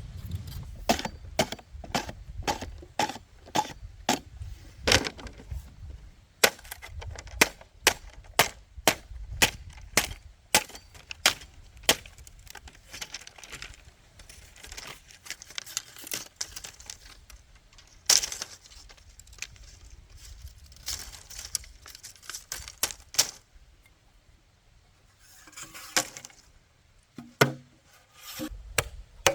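Repeated sharp strikes of a hand tool on bamboo, knocks and cracks coming in runs of about one to two a second, with a short pause about two-thirds of the way through and a few more strikes near the end.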